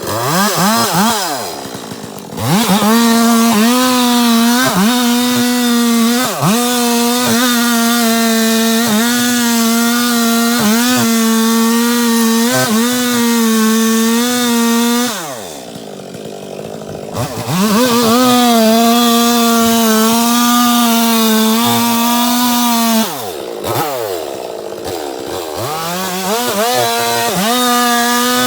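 Two-stroke chainsaw revving up to full throttle and cutting wood, its high engine note sagging a little under load. About halfway through it drops back toward idle for a couple of seconds, then revs up and cuts again. Near the end it eases off briefly before a final rev up.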